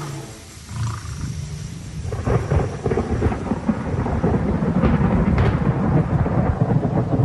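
Rolling thunder over rain, getting louder about two seconds in.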